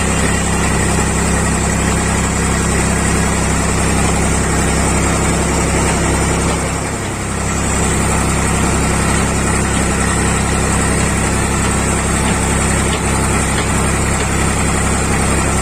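Tractor diesel engine running steadily while threshing paddy, with a brief dip in level about seven seconds in.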